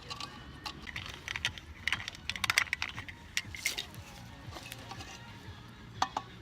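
Irregular light clicks and clatters of small hard objects being handled, densest in the middle with one sharp click near the end.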